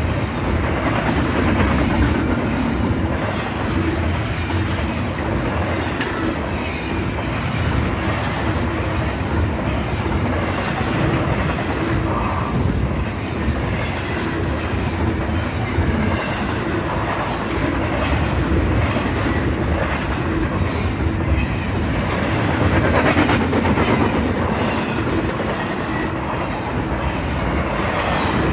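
Freight train rolling past at steady speed: a continuous rumble of the wheels on the rails.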